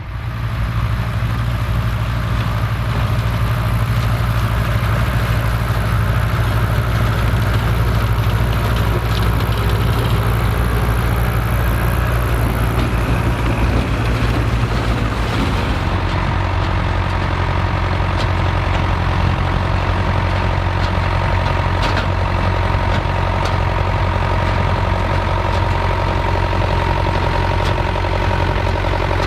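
Vintage tractor engine running steadily close by, its note dropping slightly about sixteen seconds in as the engine slows.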